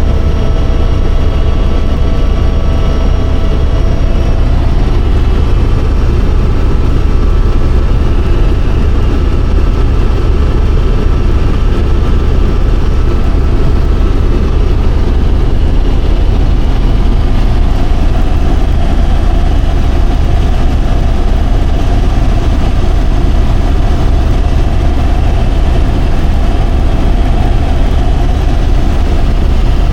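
Helicopter in flight heard from inside the cabin: a loud, steady drone of engine and rotor with a deep rumble and a few faint, steady whining tones above it.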